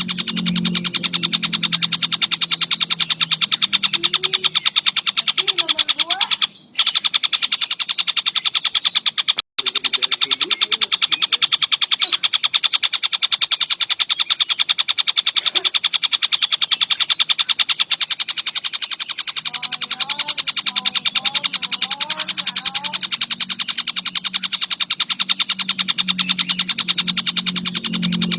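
Collared kingfisher (tengkek buto) giving a continuous, very rapid chattering call of many notes a second, with two brief breaks about seven and nine and a half seconds in. A low hum sits underneath at the start and near the end.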